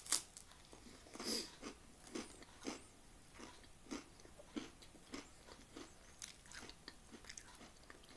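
A crunchy bite into a knäckebröd (Swedish crispbread) at the very start, then crisp chewing of the crispbread, about two crunches a second.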